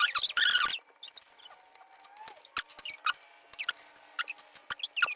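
Drawing tools scratching across paper: a loud burst of fast scribbling at the start, then short separate strokes and taps.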